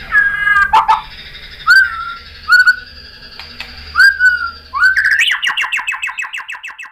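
White-rumped shama singing: several loud, separate whistled notes that swoop up and then drop, followed about five seconds in by a fast run of repeated notes, around a dozen a second, that fade out near the end.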